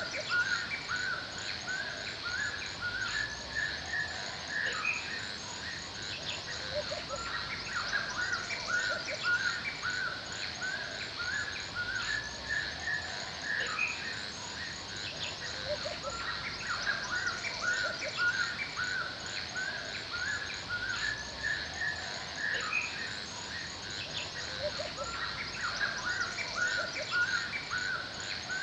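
Forest ambience: birds singing in repeated short phrases, with a steady high chirring of insects or distant birds and a soft hiss of background noise throughout.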